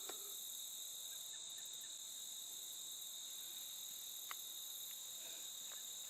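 Insects in the surrounding vegetation trilling in a steady, unbroken high-pitched chorus, with a faint click about four seconds in.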